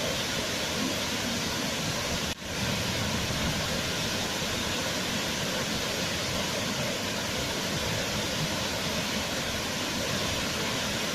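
Waterfall: a steady rush of falling water that cuts out for an instant about two seconds in and swells back.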